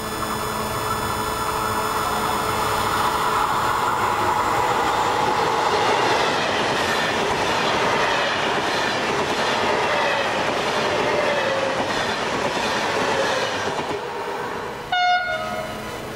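Italo AGV high-speed electric train passing close by at speed: a steady rush of wheel and air noise with a whine that slowly falls in pitch. It fades off about fourteen seconds in, followed by one brief, sharp horn-like tone.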